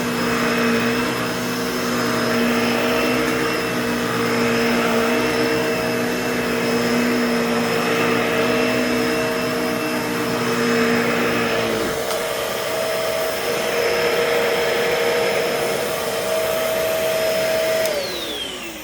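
Bissell Pet Hair Eraser Turbo upright vacuum running steadily with a high whine. About twelve seconds in, its lower hum changes. Near the end it is switched off and the motor winds down in a falling whine.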